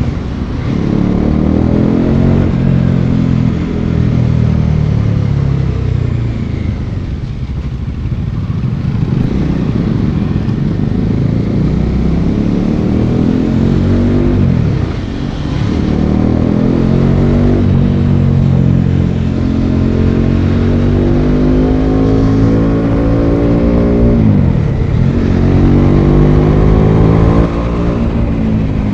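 Bajaj Dominar 400 single-cylinder engine under way, its pitch climbing as it accelerates and dropping sharply twice at gear changes before climbing again.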